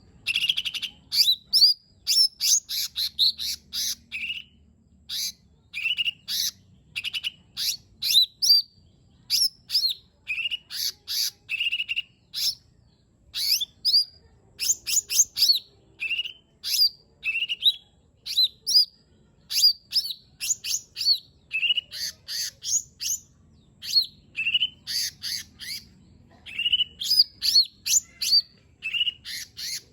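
Lesser green leafbird (cucak ijo mini) singing without pause: quick bursts of short, sharp whistled notes, many sweeping up or down.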